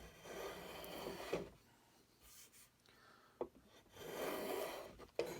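Hand plane shaving wood off a rifle stock's comb: two long, even push strokes, one in the first second and a half and another about four seconds in, with a light click from the tool between them.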